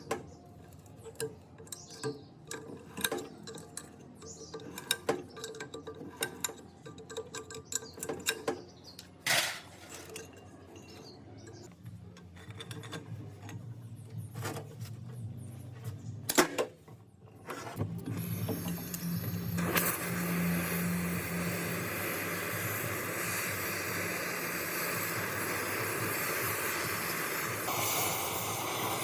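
Scattered small metal clinks and taps of workshop handwork, then about 18 seconds in a motor-driven tool starts and runs steadily with a low hum under a loud hiss.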